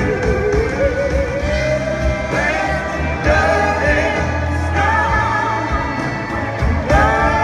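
Live blues-rock band playing, with a sustained lead line that slides slowly up in pitch and wavers over the full band.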